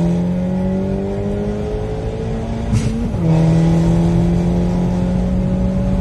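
Daihatsu Copen's turbocharged engine pulling under hard acceleration, its pitch climbing steadily. About three seconds in there is a gear change, a brief click and a sudden drop in pitch, and then the note climbs again.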